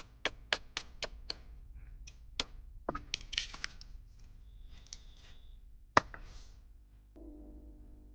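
A run of sharp taps, about four a second at first, then scattered knocks, with one loudest single knock about six seconds in.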